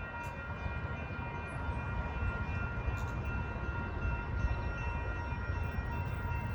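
Train approaching: a steady low rumble with thin, steady high tones above it, growing slightly louder.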